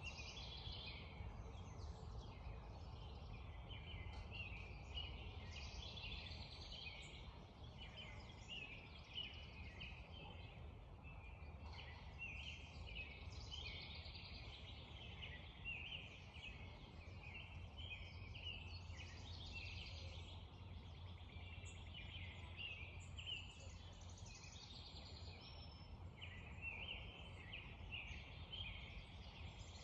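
Spring dawn chorus: many songbirds chirping and trilling at once, without a break, over the steady low rush of a creek.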